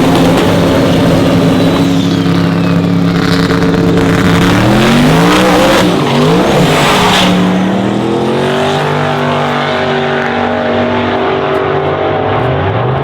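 Racing truck engines: revs held steady for several seconds, then rising in pitch as a truck accelerates hard, with a burst of noise about halfway through, before settling back to a steady engine note.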